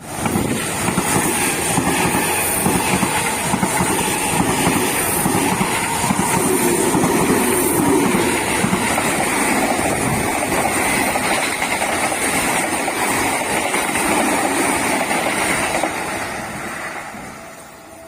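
An electric commuter train on the Seibu Ikebukuro Line runs past a level crossing, with the steady rumble and rush of wheels on rails. The noise fades away over the last couple of seconds as the train clears the crossing.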